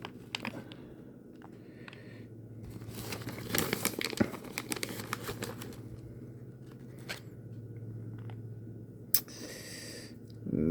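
Plastic food packaging crinkling and rustling, with scattered small clicks, as toppings are handled and added to nachos, busiest about three to four seconds in, over a low steady hum.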